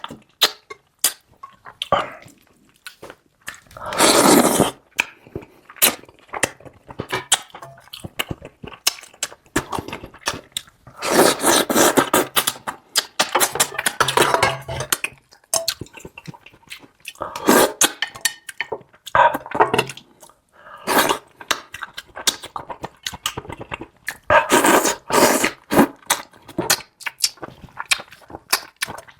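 Close-miked eating of spicy monkfish: chewing and mouth smacks with many sharp clicks, and several longer, louder noisy bursts a few seconds apart.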